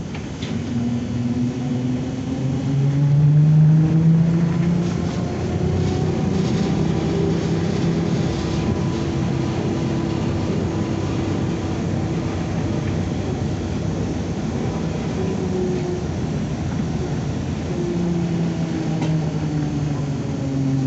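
ZiU-9 trolleybus traction motor whining under way, its pitch rising as the trolleybus picks up speed, holding, then falling again as it slows near the end. The body and running gear rumble beneath it.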